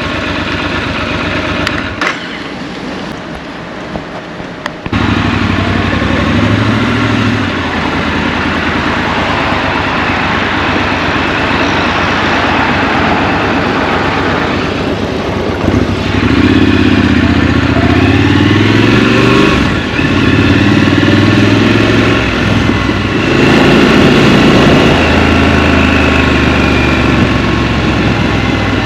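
Scrambler motorcycle engine heard from the rider's seat: running low and quietly for a few seconds, then pulling away about five seconds in, with the pitch rising and dropping several times as it accelerates through the gears.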